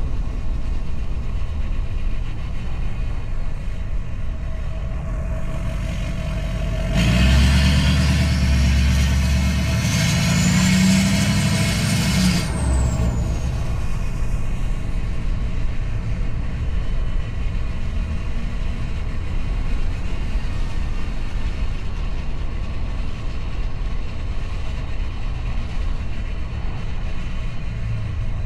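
Straight-piped Duramax 6.6-litre V8 turbo-diesel truck engine running with a steady low drone. About seven seconds in, it gets louder for about five seconds under acceleration, with a high whistle rising then falling over it, then settles back to the steady drone.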